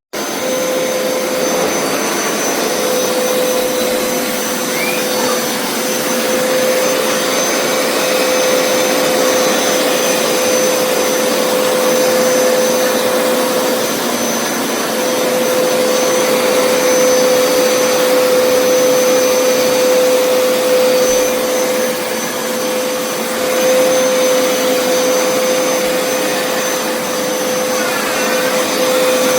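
Upright carpet cleaner (Hoover Power Scrub Deluxe) running steadily: a loud, even rush of suction with a steady mid-pitched whine from the motor.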